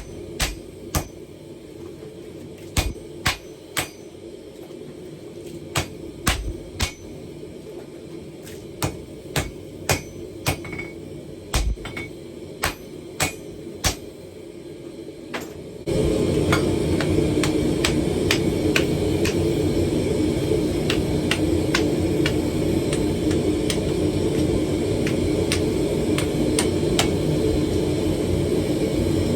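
Hand hammer striking steel on an anvil in irregular blows, about one or two a second, over a low steady hum. About halfway through, a loud steady rushing noise comes in suddenly, and lighter hammer strikes continue beneath it.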